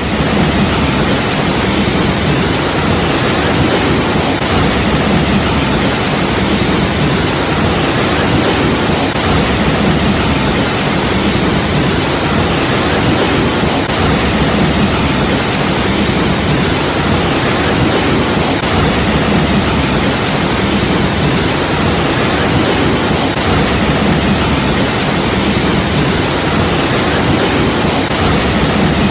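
Waterfall: water falling and splashing in a loud, steady rush with no changes.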